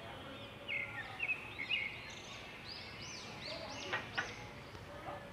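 Birds chirping in the background: a run of short chirps, each rising and falling in pitch. There are two light taps about four seconds in.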